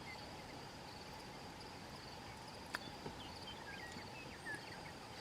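Faint prairie ambience of crickets trilling steadily, with a few short bird chirps in the second half and a single sharp click a little under three seconds in.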